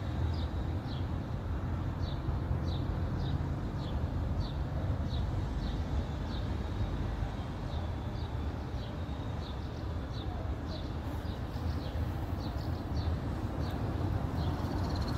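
Street ambience: a steady low rumble, with a small bird chirping over and over, short high falling chirps one or two a second.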